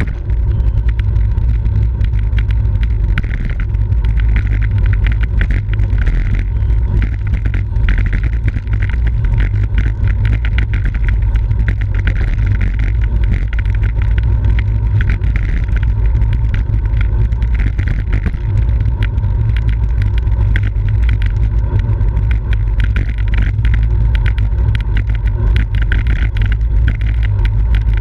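Wind buffeting a moving bicycle-mounted camera's microphone: a loud, steady, deep rumble with a constant scatter of small clicks and rattles over it.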